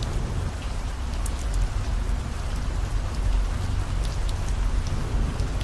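Steady rain with scattered sharp drop ticks, over the low steady rumble of a car driving on the road.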